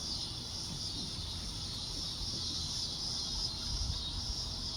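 A steady, high-pitched insect chorus: an unbroken shrill drone with no pauses, over a low rumble.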